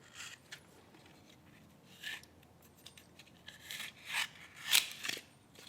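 Utility knife scoring and slicing through the paper and gypsum of a piece of drywall: a few short scraping strokes, the loudest near the end.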